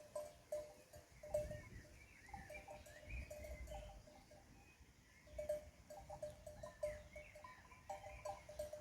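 Livestock bells clinking irregularly, as a grazing flock moves: short, light, ringing tones in no steady rhythm.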